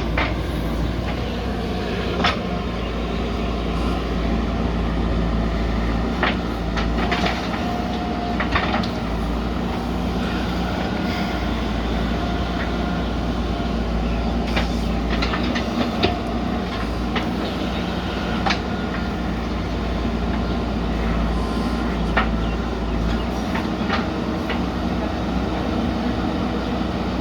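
Backhoe loader's diesel engine running steadily under work, with scattered sharp clanks.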